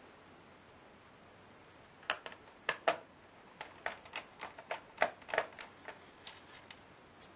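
A quick, irregular run of small hard clicks and taps, about fifteen over five seconds and thinning out near the end: plastic and metal parts and tools being handled while a Lenovo Y570 laptop is taken apart.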